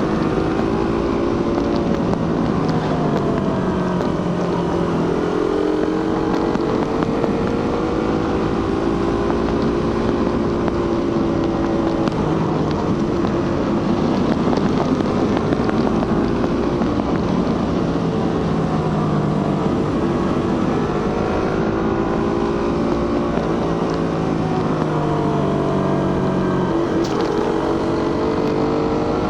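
Suzuki GSX-R150's 150cc single-cylinder engine and stock exhaust pulling the bike along a road. The engine note rises and falls several times with the throttle, over a steady rush of wind.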